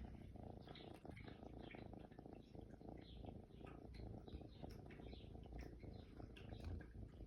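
A kitten purring close to the microphone: a soft, steady, low rumble.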